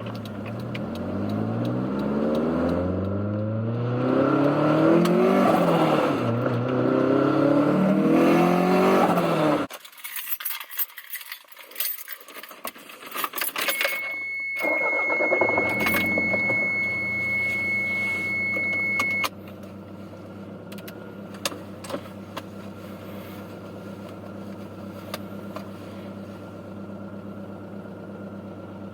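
Turbocharged 1991 Toyota MR2 engine accelerating hard, its pitch climbing in several sweeps through the gears for about ten seconds. The throttle then closes suddenly and the engine sound drops away into a spell of crackling and chattering clicks, the turbo flutter. A steady high tone sounds for about five seconds as the engine pulls again, and the engine then settles into steady, quieter running.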